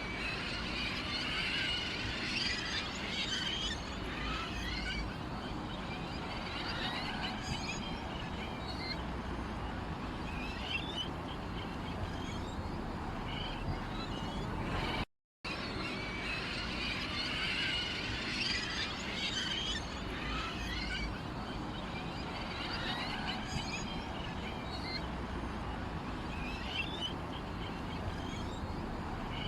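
Small songbirds chirping and twittering in a dense chorus of short high calls over a low background hum. About halfway through the sound cuts out for a moment and the same recording starts over, a looped track.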